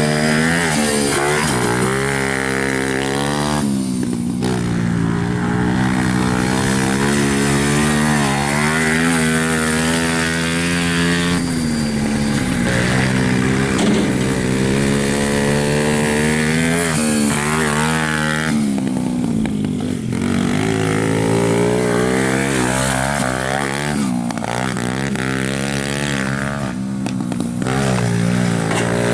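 Small pit bike engine running hard as the bike is ridden. Its pitch climbs and falls over and over with the throttle, and it drops off briefly several times when the throttle is closed.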